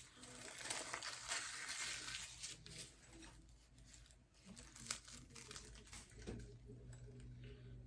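Packaging crinkling and rustling as items are handled and unwrapped, busiest in the first few seconds, then lighter rustles and small clicks.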